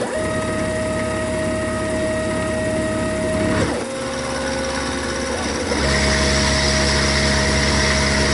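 Milling machine running a 1/4-inch ball end mill along cast iron, with steady motor tones that drop away about three and a half seconds in and then start again. A louder, hissier stretch of running comes in the second half.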